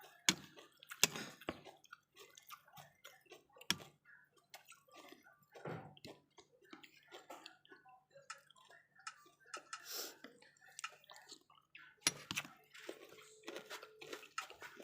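Splashing water with irregular small knocks and clinks.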